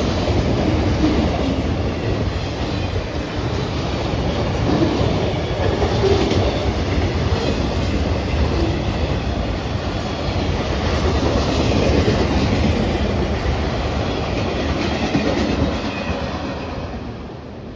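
Freight train cars (rock hoppers and autoracks) rolling past, their wheels clacking steadily over the rail joints. The sound fades near the end.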